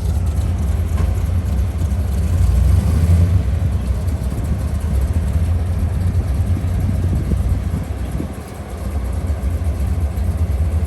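A car engine idling with a steady low rumble that swells for a moment a few seconds in.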